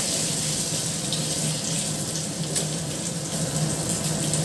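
Garlic paste, grated ginger and cumin seeds sizzling steadily in hot oil in a non-stick pan, stirred with a wooden spatula.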